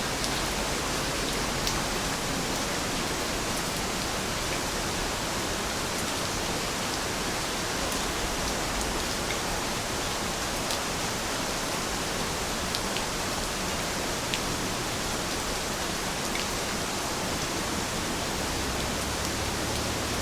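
Heavy rain falling steadily, an even hiss with scattered drops ticking sharply.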